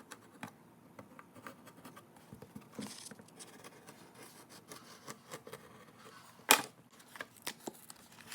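Hand work on a sheet of plastic laminate: light scattered clicks and scraping, with a sharper snap about six and a half seconds in and a few more clicks after it.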